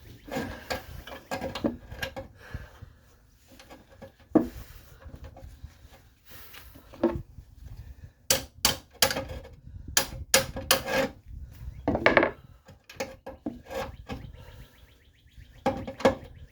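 Hand tools clanking and scraping against metal front-suspension parts while bolts are worked loose, with a quick run of sharp knocks about eight to eleven seconds in.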